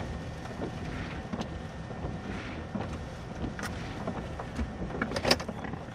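Wind rumbling on the microphone, with scattered small clicks and a sharper knock about five seconds in.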